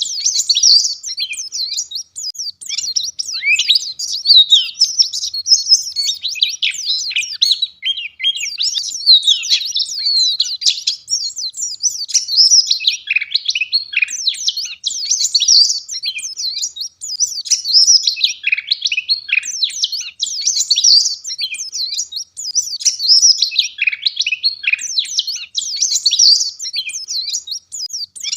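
White-eye (pleci) singing a rapid, dense twittering song of high chirps and trills, almost without pause.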